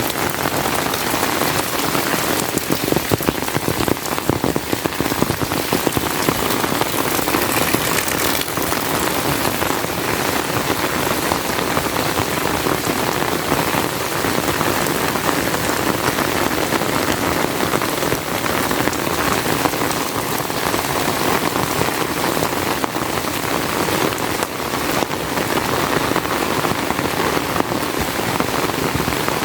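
Heavy rain falling steadily, a dense unbroken patter of drops.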